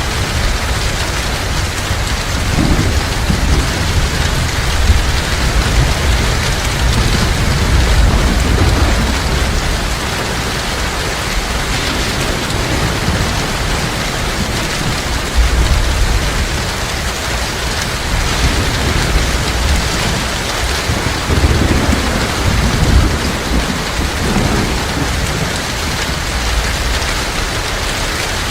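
Heavy rain falling steadily, with low rumbles of distant thunder rolling under it several times.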